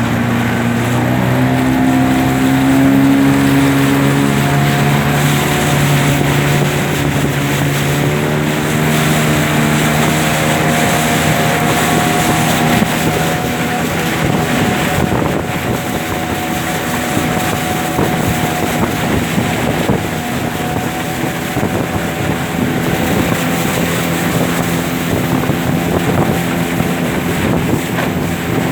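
Racing motorboat engines running at speed: a steady drone whose pitch drifts slowly up and down, with wind buffeting the microphone.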